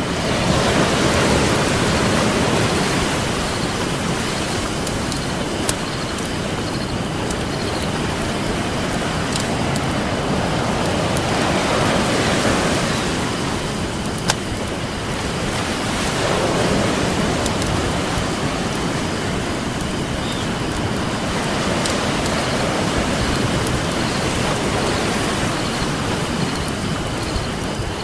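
Ocean waves washing ashore in slow swells every few seconds, with a few sharp crackles and pops from a wood campfire.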